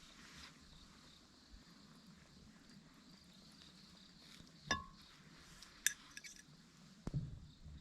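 Light clinks and taps of tableware: a clink with a short ring about four and a half seconds in, a sharper tap with a brief rattle near six seconds, then a few soft knocks near the end.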